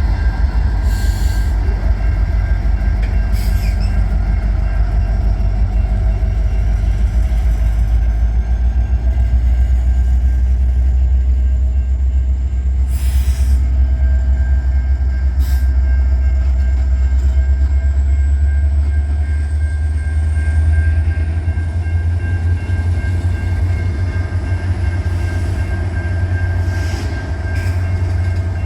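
Diesel freight train locomotives running, with a heavy steady engine rumble. A thin, steady high tone runs underneath, and a few sharp clicks come from the wheels on the rails.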